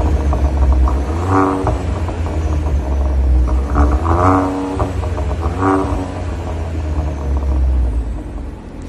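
A VW Golf 8's 1.0 three-cylinder turbo engine running through an aftermarket performance exhaust with a deep, steady rumble. It is revved briefly about three times, around one and a half, four and nearly six seconds in.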